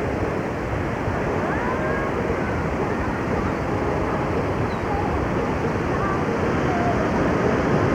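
Steady rush of ocean surf and wind on the microphone, with a few faint, short gliding cries scattered over it.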